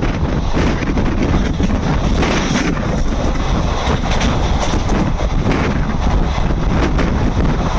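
Passenger train running, a steady rumble of the coach with wind buffeting the microphone.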